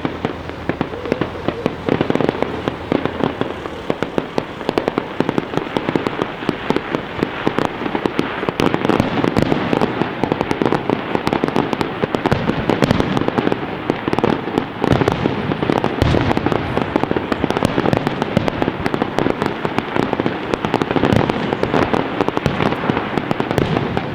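Fireworks display: a continuous, dense run of shell bursts and crackling reports with no pause, heard from a distance.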